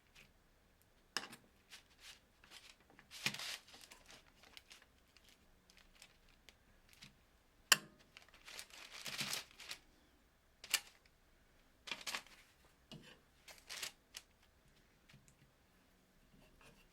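Kitchen handling sounds during food preparation: intermittent rustling and crinkling, with a few sharp clicks and taps.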